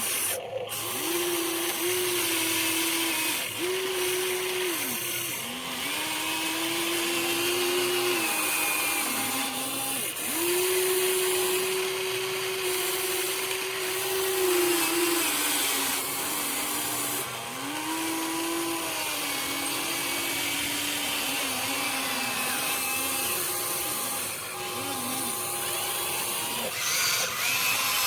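Huina 1593 RC excavator's small electric motors whining in stops and starts, the pitch stepping up and down as different functions are driven, over a steady gear and motor hiss.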